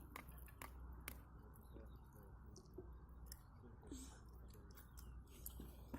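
Near silence, with a few faint scattered clicks of cutlery against plates as children eat.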